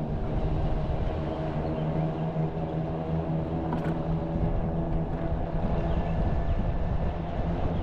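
Vehicle engine running steadily while driving along a road: a constant, even drone with road noise underneath.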